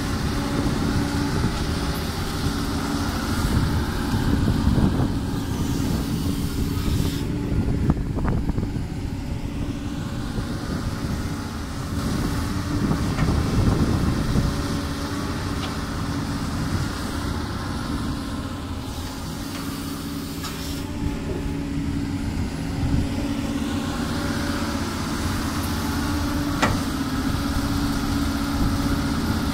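Doosan DX200 excavator's diesel engine running steadily, swelling and easing in loudness every several seconds as the machine works, with an occasional sharp knock.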